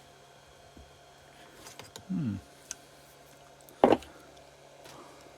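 Metal engine parts and hand tools handled during a motorcycle engine strip-down: a few small clicks and one loud sharp metallic knock about four seconds in. A short sound falling in pitch comes about two seconds in.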